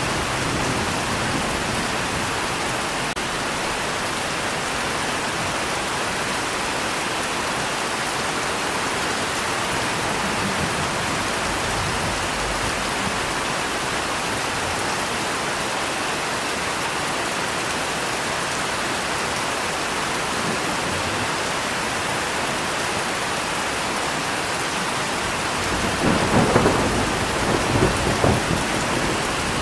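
Steady rain falling in a thunderstorm. Near the end comes a short, crackling rumble of thunder, the loudest moment.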